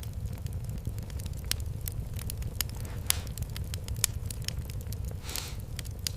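Wood fire in a fireplace crackling, with irregular sharp pops over a steady low rumble, and a short hiss about five seconds in.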